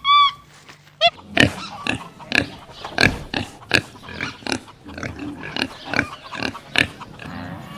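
A rapid series of short animal calls, about two or three a second, running from about a second in until near the end.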